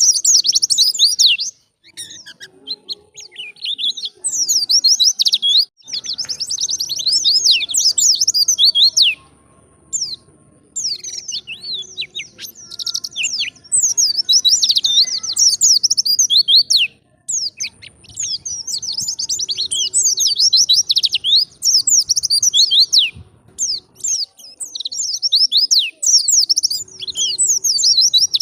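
White-eye (pleci) singing: a fast, chattering run of high twittering notes in phrases a few seconds long, broken by short pauses.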